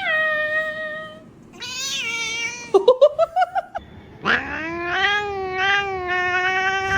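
Cat meowing: two drawn-out meows, then a quick run of short cries about three seconds in, and a long held yowl starting about four seconds in.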